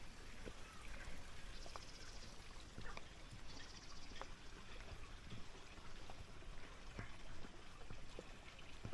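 Running water trickling, with scattered light clicks and, twice, a short burst of rapid, high-pitched buzzing.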